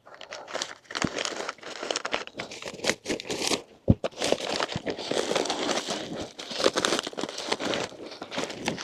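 Packing material crinkling and rustling as it is handled, with scattered small clicks and a sharper knock about four seconds in.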